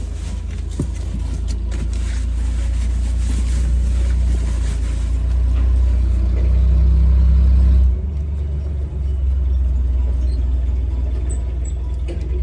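Car engine running with a low rumble. It grows slowly louder, then drops off suddenly about eight seconds in.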